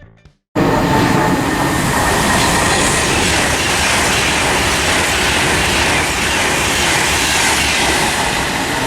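Train running close past at speed: a loud, steady rush of wheels on rail and air that cuts in suddenly about half a second in.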